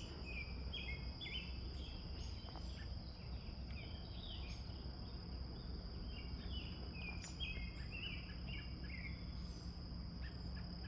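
Outdoor ambience: a steady high-pitched insect trill with many short bird chirps over it, and a low rumble underneath.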